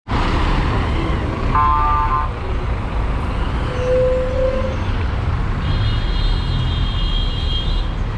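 City street traffic running steadily, with a short car-horn toot about one and a half seconds in and a longer high-pitched tone in the second half.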